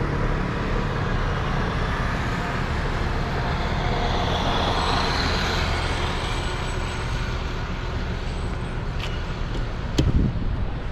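Steady road traffic, with a vehicle passing about midway and a sharp knock near the end.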